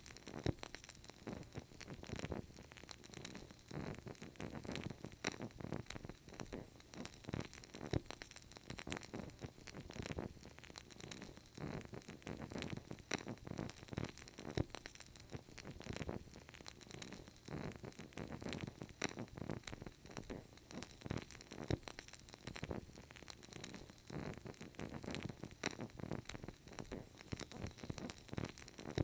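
Burning candle crackling: a steady run of small, irregular pops and snaps.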